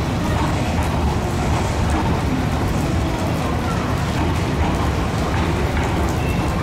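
Steady low rumble of railway equipment running at a station platform, with an even hiss over it and no distinct events.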